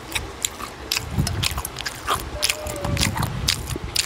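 Close-miked wet chewing of a steamed siomai dumpling, with quick sharp lip smacks and mouth clicks several times a second.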